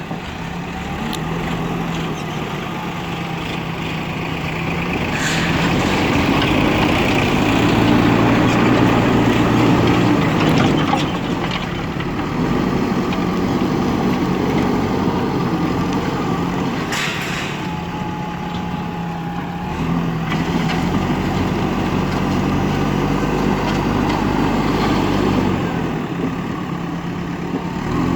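Diesel engine of a JCB backhoe loader running under working load, its pitch stepping up and down, loudest about six to eleven seconds in. Two short hisses come about five and seventeen seconds in.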